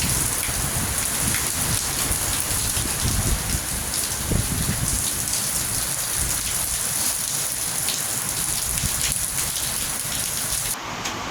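Heavy hurricane rain pouring and splattering, a dense steady hiss, with gusting wind rumbling across the microphone. Near the end the high hiss abruptly thins.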